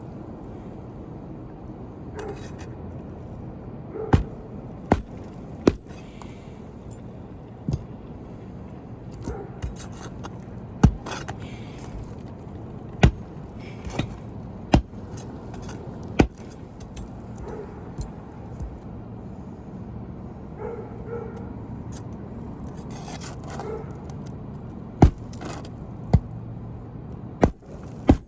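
Irregularly spaced sharp knocks, as new roofing nails are driven and a shingle bar works an asphalt shingle into place, with scraping between the strikes.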